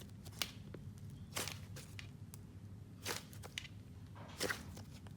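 Hands squishing and pressing a thick, layered clear, icing and clay slime, giving quiet, separate pops and crackles about once a second.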